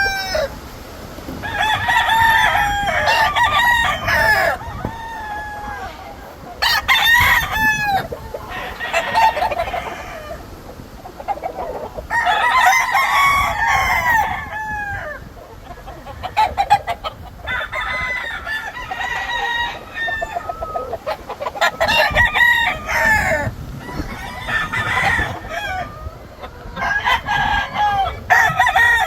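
Several gamefowl roosters crowing one after another, each crow lasting two to three seconds, about nine crows in all, some overlapping.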